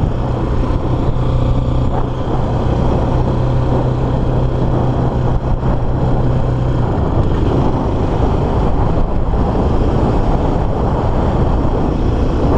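Motorstar Cafe400's single-cylinder 400cc engine running at cruising speed on an expressway, under heavy wind rush on the microphone. A steady low engine note drops away about seven seconds in, leaving mostly wind and road noise.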